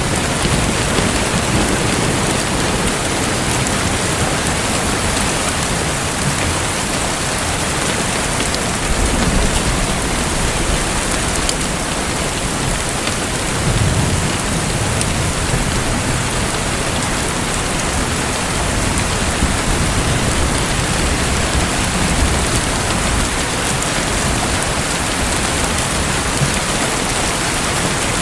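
Steady hiss of water, like heavy rain or splashing, with low rumbles swelling about 9 and 14 seconds in.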